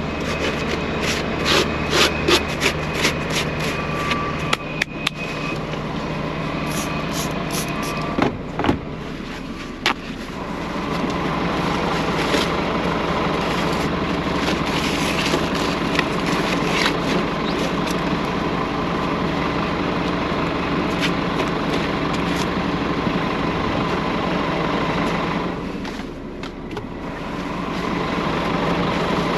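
Scania truck's diesel engine running steadily, with a run of sharp clicks and knocks over the first nine seconds or so, then steady engine noise that dips briefly near the end.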